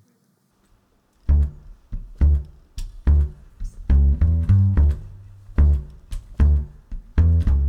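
Upright bass plucking a line of low notes, about one or two a second, starting about a second in as an indie-folk string band's song begins.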